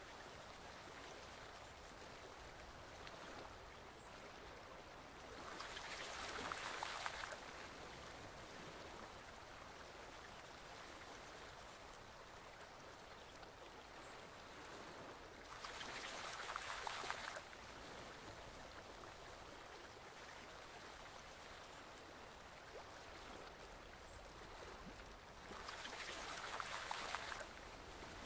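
Forest stream flowing steadily, swelling louder for a second or two three times, about every ten seconds.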